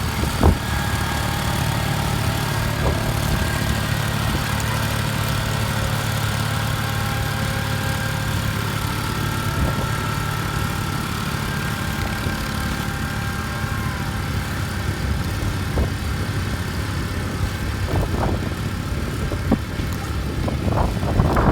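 Modified garden tractor engine running steadily during a pull down the track. There is a sharp knock about half a second in and a few fainter ones near the end.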